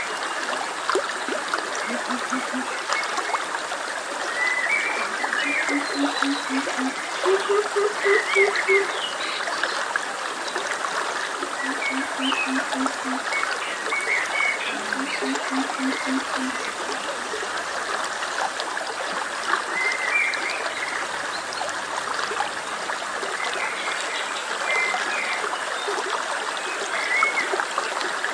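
A stream running steadily, with frogs giving short runs of low pulsed croaks five times at varying pitch, and scattered small bird chirps.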